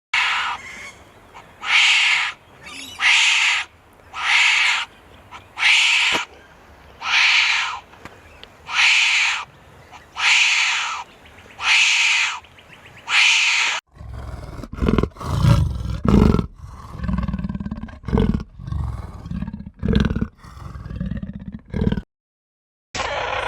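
Animal calls: about a dozen evenly spaced, high-pitched calls, roughly one a second, then from about fourteen seconds in a run of low, irregular grunts.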